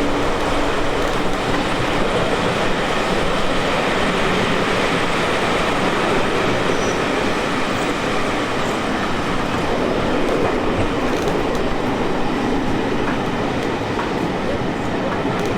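A train running on the track: a steady, loud rumble of wheels on rail with no break.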